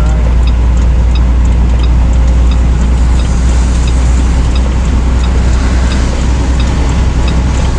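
Semi-truck cab while driving: a steady low engine drone with road noise, and a faint regular ticking about twice a second.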